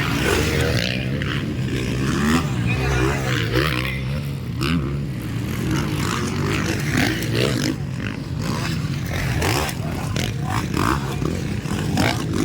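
Several motocross bikes racing, their engines revving up and down again and again as they accelerate and ease off.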